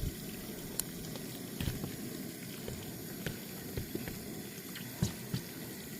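Wet squelching and sticky clicks as a hand works inside a Cornish Cross chicken's body cavity, pulling out the entrails, with a few sharper wet knocks, the loudest about five seconds in.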